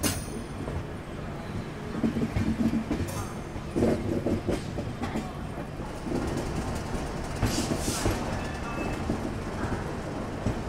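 Double-decker express train running through a station's track points, heard from an open coach door: a steady rumble with wheels clicking and knocking irregularly over rail joints and crossings, and a short hiss about three-quarters of the way through.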